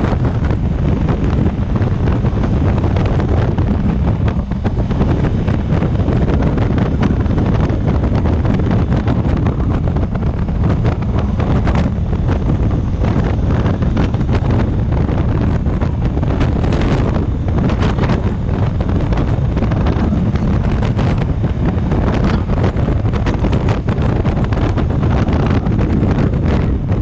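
Loud wind noise buffeting the microphone of a motorcycle riding at speed, a dense low rumble with constant gusty flutter.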